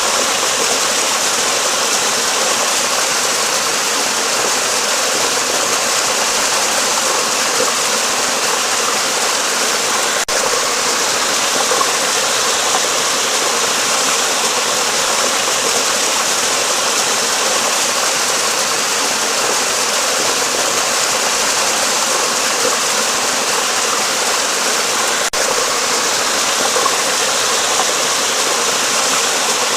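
Flowing water rushing steadily, an even hiss-like noise with no breaks or changes.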